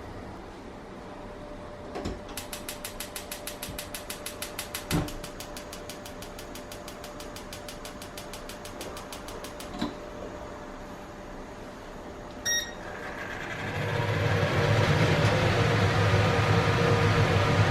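An electric kitchen appliance being set and started: a fast, even ticking for several seconds with a few knocks, a short electronic beep, then a steady electric hum that starts and grows louder.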